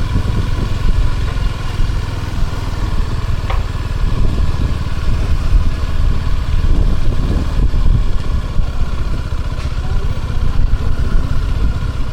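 Suzuki motorcycle engine running on the move, with a dense low rumble that rises and falls, and a brief sharp sound about three and a half seconds in.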